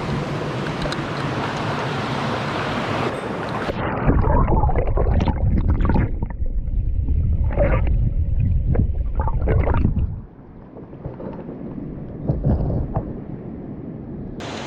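Mountain-stream water running, which goes muffled about three seconds in. Loud low rumbling and knocks on the microphone follow, then it quietens, and the open stream sound returns just at the end.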